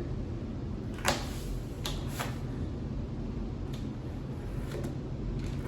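A few soft clicks and taps from handling plastic kinetic-sand tools, the clearest about a second in and two more around two seconds, over a steady low background hum.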